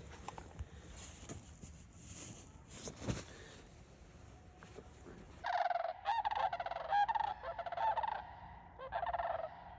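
Geese honking: a quick run of repeated calls starting about halfway through, after a few seconds of faint background with a few small knocks.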